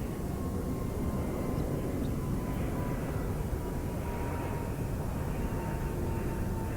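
A steady low outdoor rumble with a faint hum that slowly drops in pitch throughout: a distant engine drone passing by.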